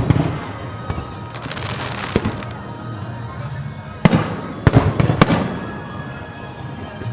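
Aerial fireworks bursting: a crackling fizz about a second and a half in, then three sharp booms between about four and five seconds in, over music.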